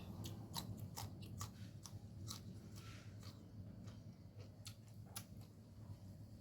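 Close-up chewing and crunching while eating noodles, with irregular sharp mouth clicks and crunches.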